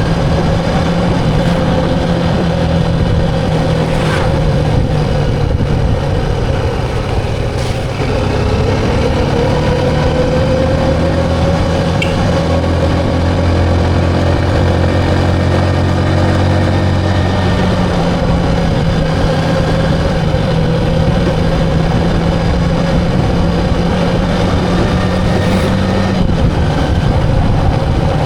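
Motor vehicle engine running steadily, its pitch drifting slightly up and down.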